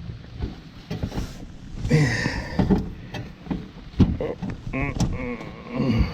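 Clunks and knocks of a battery being handled and fitted into a standby generator's battery tray, with a sharp knock about four seconds in and some low muttering.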